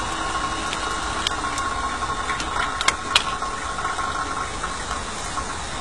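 Steady whine and hiss of the electric draught fan on a miniature coal-fired steam locomotive, with a few sharp metal clinks, the loudest pair about three seconds in, as coal is shovelled into the firebox.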